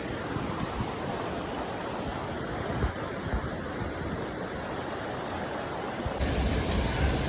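Waterfall rushing in a steady, even roar of falling water. About six seconds in the sound changes abruptly and gets louder, with a heavier low rumble.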